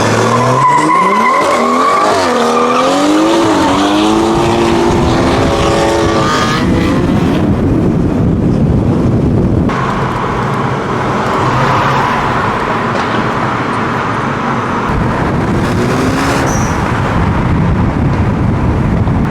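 Car engine revving hard, its pitch sweeping up and down several times over the first six seconds, followed by a dense stretch of engine and road noise.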